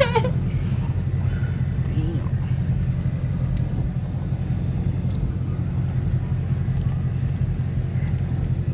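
Steady low rumble of a car's engine and road noise heard from inside the cabin while driving slowly.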